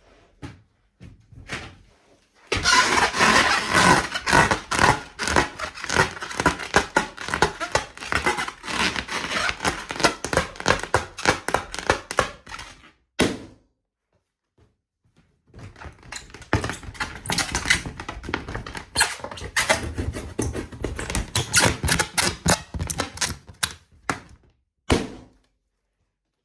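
A rubber balloon being handled, making dense, rapid crackling and squeaking in two long runs of about ten seconds each. A single sharp sound comes between the runs and another near the end.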